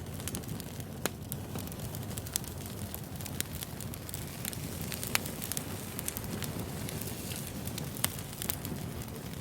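Wood fire burning: a steady low rumble with sharp, irregular crackles and pops from the burning logs.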